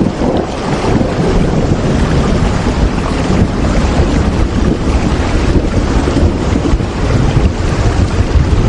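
Steady rain, a dense, even rush of noise with a deep rumble underneath and no pauses.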